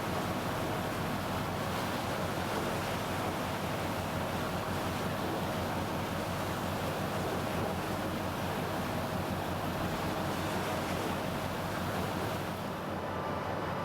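Steady rush of sea waves and wind, with a low steady hum underneath.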